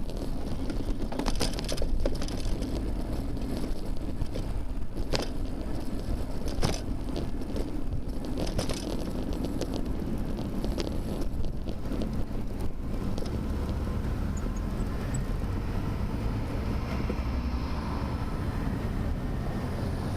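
Wind rumbling over a bicycle-mounted camera's microphone while riding, with scattered clicks and rattles from the bike and camera mount over bumps during the first half.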